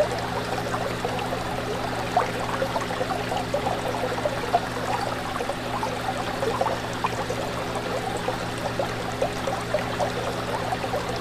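Aquarium water bubbling and trickling in a dense, even patter, over a steady low hum.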